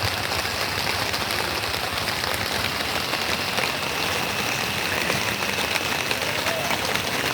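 Light rain falling steadily at night, a dense hiss of many small drops at an even level.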